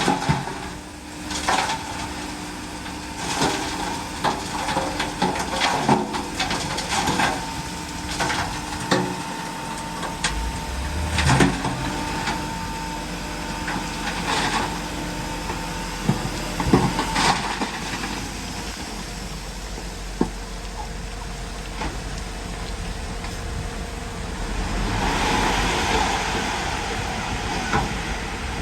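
Heavy diesel earthmoving machinery at work: a steady engine hum under many sharp clanks and knocks, thickest over the first two-thirds. A thin steady whine runs through the first half, and a rushing swell comes near the end.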